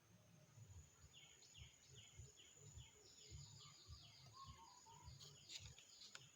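Faint bird calls: a series of short, falling chirps repeated about twice a second, with irregular low thumps and a steady thin high tone underneath.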